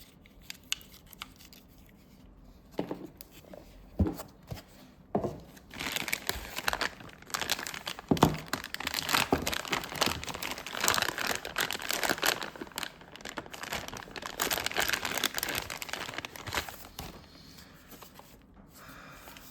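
Packaging crinkling and rustling as a boxed device is unwrapped by hand, with a few light knocks at first and continuous crinkling through the middle.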